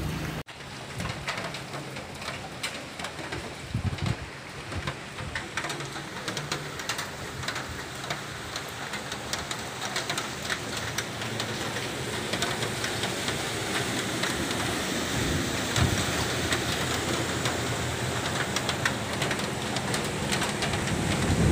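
Steady rain falling, with many small scattered taps of drops hitting close surfaces.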